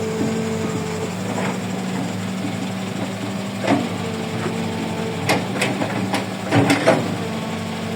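Kobelco 135 excavator's diesel engine running steadily, its note dropping about a second in. A series of sharp knocks and clanks comes in the second half, the loudest cluster near the end.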